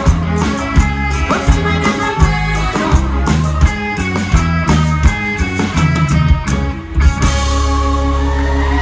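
Live band music: a band playing the last bars of a song over a steady drum beat, then holding one long final chord from about seven seconds in.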